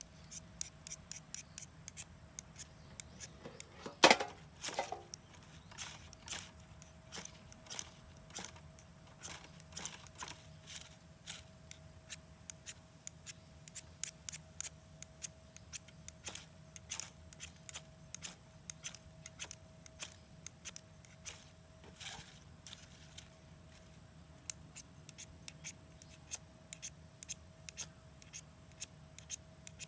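Wood campfire crackling: irregular sharp pops and snaps, a louder pop about four seconds in.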